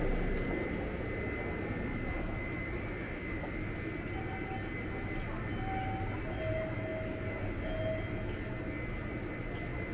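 Rail station ambience: a steady low rumble with a thin steady high whine, and a few short pitched tones in the middle.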